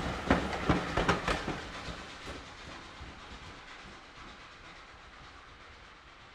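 Railway passenger coaches' wheels clacking over the rail joints as the last coach passes, a handful of sharp clicks in the first second and a half. Then the train's running noise fades steadily as it draws away.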